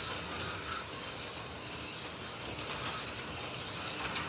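Slot.it slot cars running laps on the track: a steady whir of small electric motors and wheels on the track, with a couple of sharp clicks near the end.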